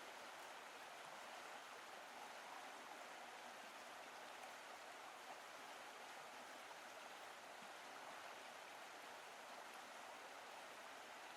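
Faint, steady rush of a river's white water.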